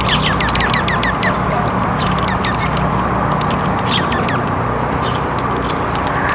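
Songbirds chirping, a quick run of short falling chirps repeated throughout, with some higher notes, over a steady background hiss.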